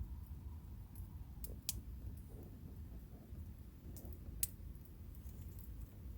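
Wood campfire crackling, with a few sharp pops over a low steady rumble.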